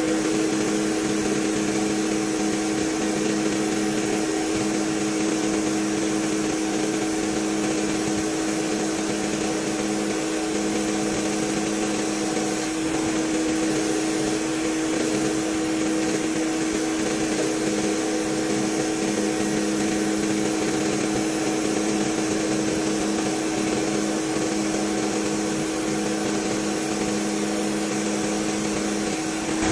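Workshop machinery running steadily: a constant mechanical hum made of several steady tones over a hiss, with the lowest tone dropping out briefly twice.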